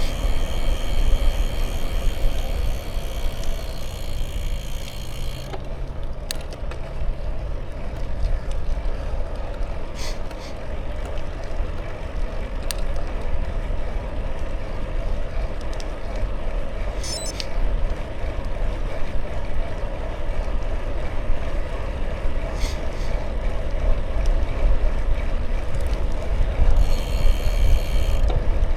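Bicycle on the move: a steady low rumble of wind on the microphone and tyre noise, with a few sharp clicks and a brief rattle about seventeen seconds in. A brighter hiss sits over it for the first five seconds or so and again shortly before the end.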